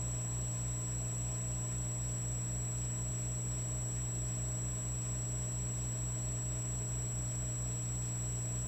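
Electric fireplace log set humming steadily, an electrical buzz with a low throb pulsing about four times a second underneath.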